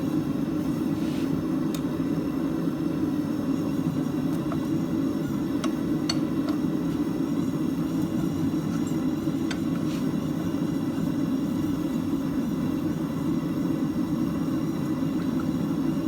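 Steady roar of a forge running, with a few faint metallic clicks on top.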